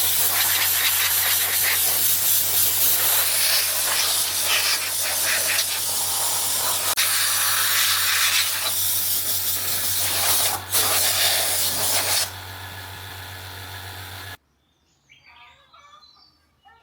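Loud, steady hiss of air or liquid sprayed under pressure, with a low steady hum beneath it. It drops to a quieter hiss about twelve seconds in and stops abruptly a couple of seconds later.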